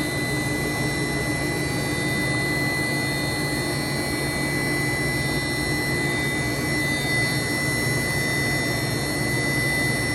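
Johnford DMC-2100 gantry machining center's HSK 63 spindle running steadily at about 8,500 RPM: an even machine hum with a thin, steady high-pitched tone over it.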